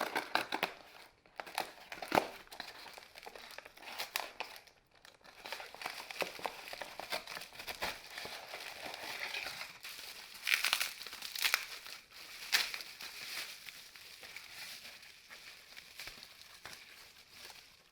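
Irregular crinkling and rustling of something being handled, with sharp crackles and clicks, loudest in a few spurts around two seconds in and again at about ten to twelve seconds.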